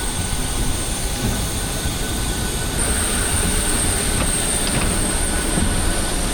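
Jet airliner engines heard from inside the cabin: a steady rush with a thin high whine that grows stronger about three seconds in.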